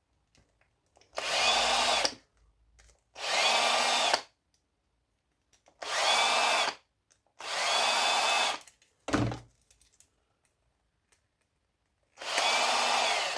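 Electric drill-driver backing out Phillips screws: five short runs of the motor, about a second each, each whining up quickly to a steady pitch, with pauses between as it moves from screw to screw.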